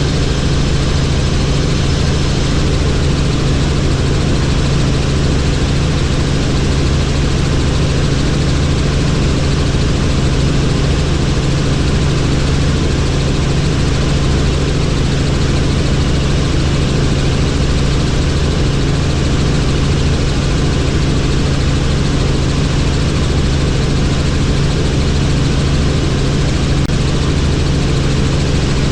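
Helicopter in flight: steady, loud rotor and turbine noise, unchanging throughout.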